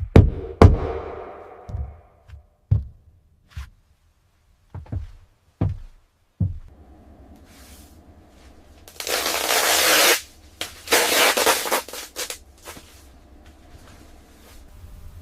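A series of sharp knocks, then about three seconds of loud hissing in two stretches over a steady low hum.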